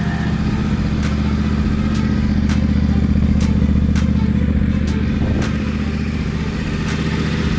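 Yamaha Ténéré 700's parallel-twin engine running steadily through a LeoVince aftermarket exhaust, getting a little louder in the middle, with a scattering of sharp clicks.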